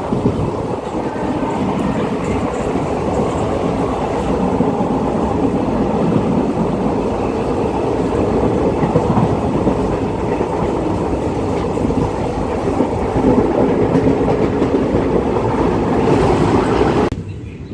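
Passenger train running at speed, a steady loud rumble and rattle of wheels on the rails heard from an open carriage doorway. It cuts off suddenly about a second before the end.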